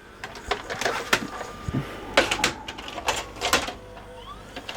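LG VCR/DVD combo's tape-loading mechanism clicking and clacking in uneven bursts as it tries to eject a VHS tape, with a brief rising motor whine near the end. The eject is going wrong, a sign of the faulty loading mechanism.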